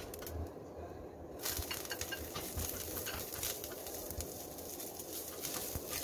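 Curry leaves, garlic cloves and dry red chillies sizzling in a little hot oil in a stainless steel pan, with light crackles. The sizzle starts suddenly about a second and a half in, as the leaves and garlic go into the oil.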